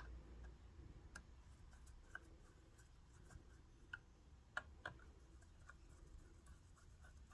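Near silence with a few faint, irregular light clicks from tools and small parts being handled on the sewing machine.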